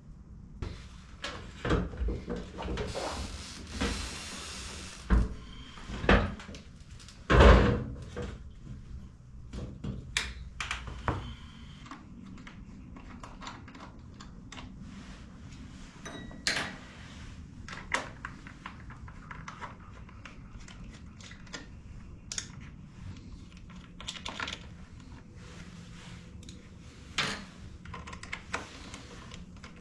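Workshop clatter of tools and motorcycle parts being handled: an irregular run of knocks, clicks and clunks, with a few louder thumps in the first eight seconds and a short hiss about three seconds in.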